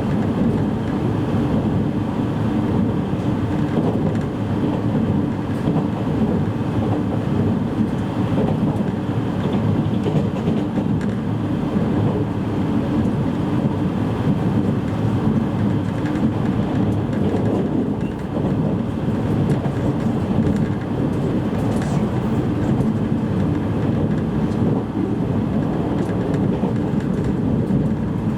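Steady running noise heard inside a JR East E653 series electric train's motor car at speed: a constant low rumble of wheels on rail and running gear, with a brief dip about two-thirds of the way through.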